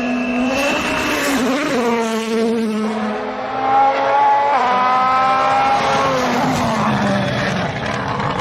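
Rally car engine running at high revs under hard driving, its pitch wavering and sliding, with a sudden pitch change about four and a half seconds in, typical of a gear change.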